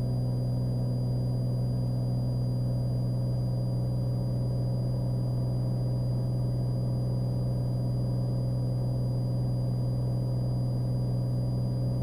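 Cessna Skylane's piston engine and propeller droning steadily in the climb-out, heard inside the cabin, with a faint steady high-pitched whine over it.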